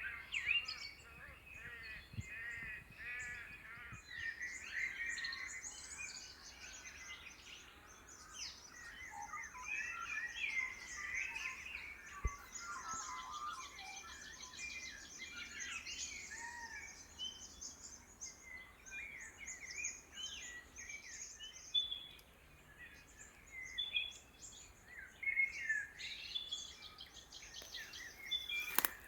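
Many birds singing and calling at once in Australian woodland: a mellowing dawn chorus. It mixes repeated whistled notes, fast high trills and scattered chirps, with a sharp click near the end.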